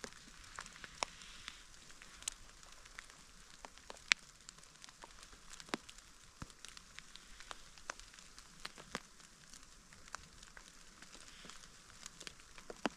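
Light rain falling, with irregular sharp drops of water ticking onto nearby surfaces over a soft steady hiss.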